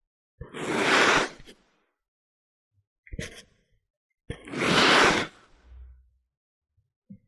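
Kinetic sand being worked, giving two long crunching swishes of about a second each, one near the start and one just past the middle, with a shorter crackle between them.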